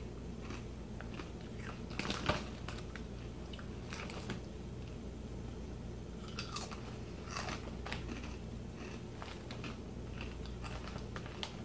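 Corn chips (Fritos Chili Cheese) being bitten and chewed: irregular crisp crunches, with a louder cluster about two seconds in, over a steady low hum.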